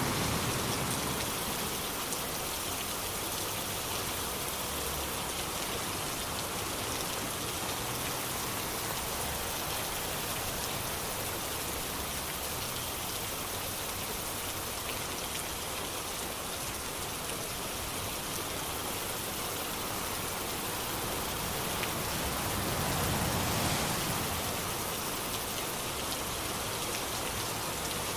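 Steady rain falling in an even, continuous patter, swelling briefly once a few seconds before the end.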